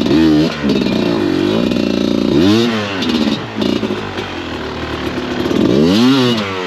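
Dirt bike engine revved hard in repeated bursts, with three big revs, as the rider tries to power the stuck bike up out of a slippery hole.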